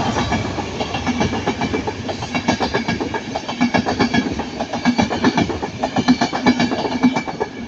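Locomotive-hauled Mark 4 passenger train with a Class 67 diesel and driving van trailer passing close by, its wheels clattering rhythmically over the rail joints. The clatter is loudest in the second half and falls away sharply at the end as the train clears.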